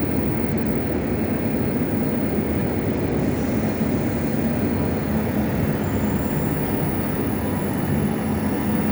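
Pendolino electric train running slowly along the platform, a steady rolling rumble. A faint high whine comes in about halfway through and sinks slightly in pitch.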